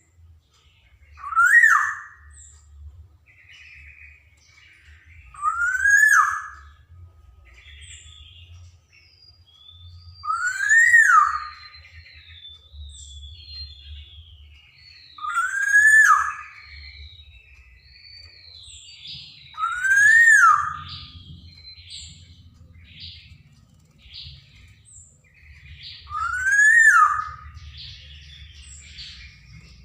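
Black-naped oriole giving a loud call that sweeps up and falls back, six times, about every five seconds. Softer chirps and whistles fill the gaps between the calls.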